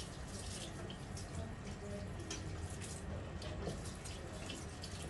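Water from a tap running into a sink, with irregular splashes and drips throughout, as in washing something under the tap.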